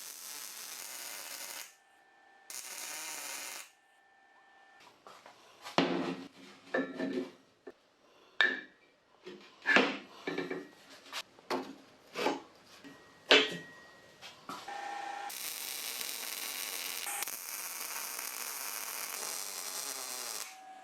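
Workshop tool work: two short bursts of hissing, then a dozen or so sharp knocks and clanks at an uneven pace, then a steady hiss for the last few seconds.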